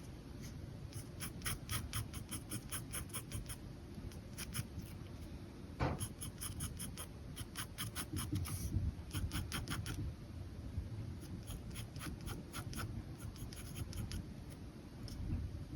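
Pen scratching on paper in quick, short, repeated strokes, coming in flurries with brief pauses between them; once, near the middle, a soft knock.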